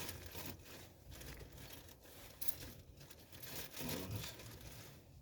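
Intermittent rustling and light handling noises as small drum-brake hardware parts, pins and springs, are sorted by hand.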